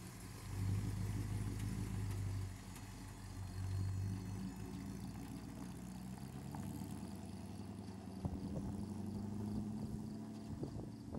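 1951 Willys Jeep truck's engine running, revving up twice in the first few seconds, then climbing slowly in pitch, with a few light knocks near the end.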